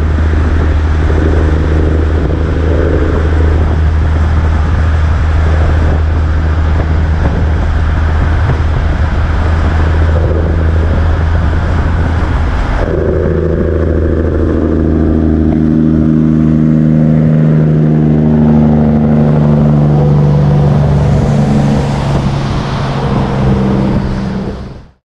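Heavy truck's diesel engine running close by with a steady low drone. About halfway there is a sudden change in the sound, and the engine's pitch then falls slowly as it slows, before the sound fades out at the end.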